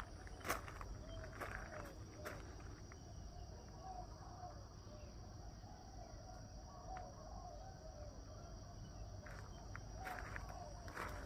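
Rural outdoor ambience: insects droning with a steady high tone, while short animal calls repeat again and again. A few sharp clicks sound near the start and near the end.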